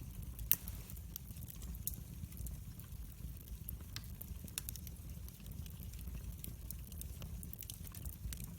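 Wood fire crackling in a fireplace: scattered sharp snaps and pops over a low rumble of the flames, with one louder pop about half a second in.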